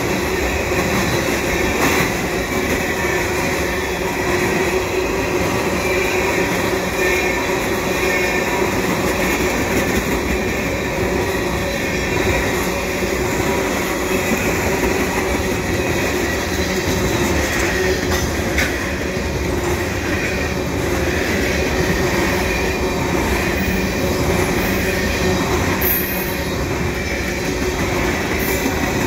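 Freight train tank cars rolling past close by, with a steady, continuous rumble of steel wheels on rail.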